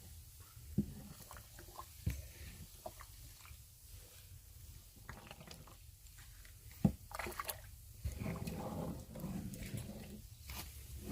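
Soft wet squishing and scattered small clicks of steamed glutinous rice being worked together with barley malt powder, with denser, louder mixing near the end.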